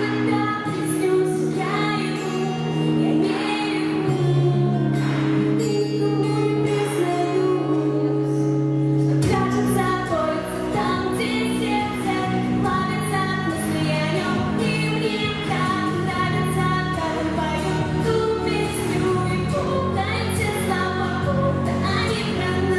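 A woman singing a pop song over held accompaniment chords. About nine seconds in, a fuller accompaniment with a low bass comes in under the voice.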